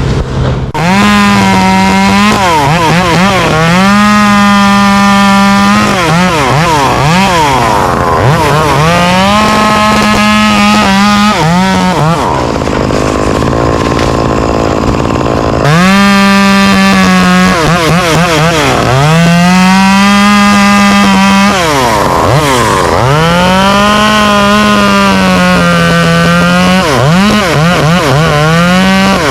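Chainsaw cutting tree limbs, revved up and held at high speed in repeated bursts, dropping back between cuts, with a pause of a few seconds midway. A steady engine hum runs underneath.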